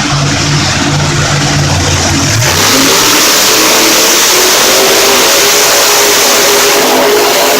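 Monster truck engine running, then opening up to full throttle about two and a half seconds in and holding a loud, high, slowly rising note.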